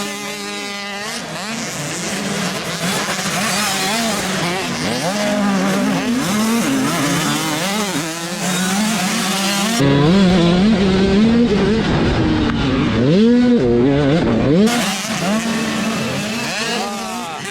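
Several motocross dirt bikes racing, their engines revving up and down over one another as riders work the throttle through the track. The engine noise gets louder and deeper for a few seconds in the middle.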